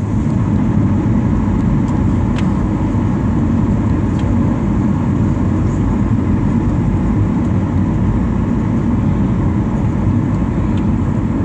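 Steady low rumble of a jet airliner's engines and airflow heard inside the passenger cabin, with a couple of faint clicks or rattles.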